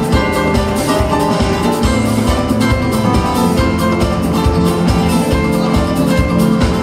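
Live band playing an instrumental passage without vocals: a drum kit keeping a steady beat under sustained pitched instruments.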